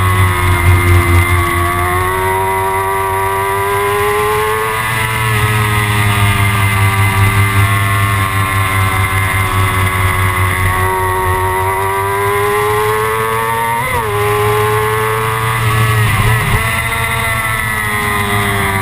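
Kawasaki ZX-6R's inline-four engine running at high revs, its pitch rising and falling slowly over several seconds, with a low rumble underneath. Near the end the pitch dips sharply twice in quick succession.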